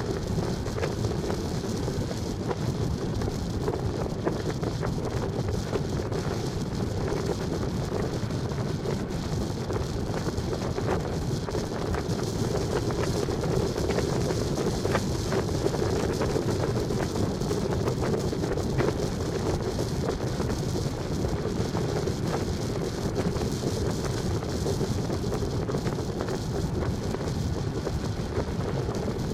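Steady wind noise on the microphone, mixed with the running noise of a vehicle on the road.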